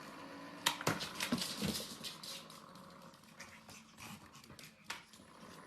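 A dog making small sounds, with a cluster of sharp clicks and knocks about a second in and one more near the end.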